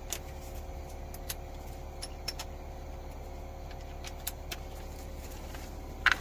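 Scattered light metallic clicks and clinks of hand tools and sockets working on the engine's head bolts, over a steady low hum.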